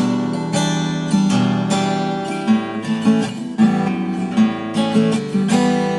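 Acoustic guitar playing an instrumental passage of fingerpicked and strummed chords, with no singing.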